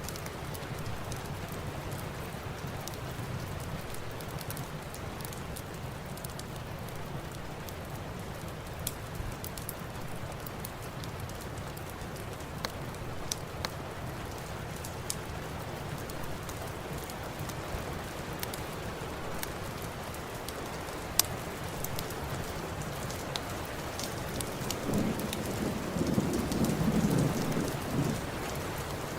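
Steady rain with scattered sharp pops, and a low rumble of thunder that swells for a few seconds near the end.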